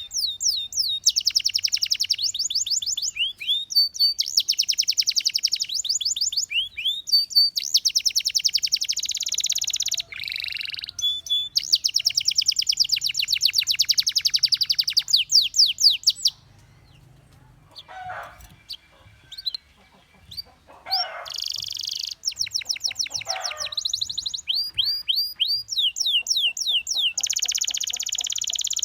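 Domestic canary singing: long, very rapid trills of repeated notes mixed with upward-sweeping whistled notes. The song breaks off for several seconds a little past halfway, then resumes.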